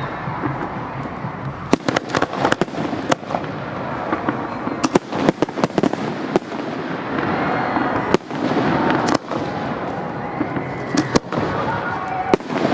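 Aerial fireworks display: a quick, irregular run of sharp bangs from shells bursting, over a dense continuous crackle and rumble.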